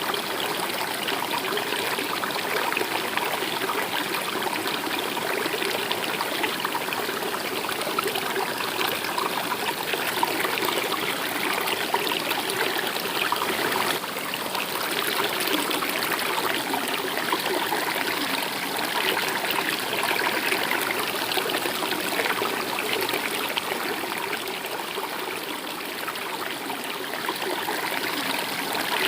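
A stream or small river flowing and babbling steadily.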